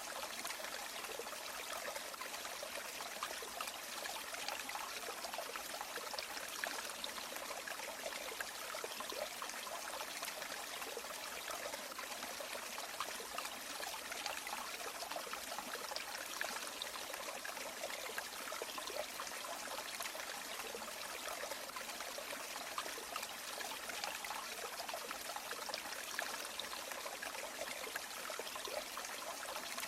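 River water flowing and trickling over stones, a steady babbling rush that does not change.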